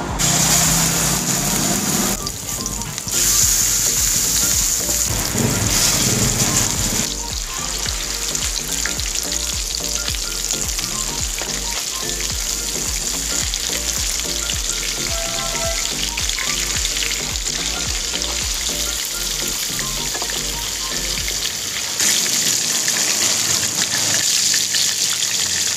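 Ground-beef burger patties frying in hot oil in a pan: a loud, steady sizzle that surges sharply at the start, about three seconds in and again near the end.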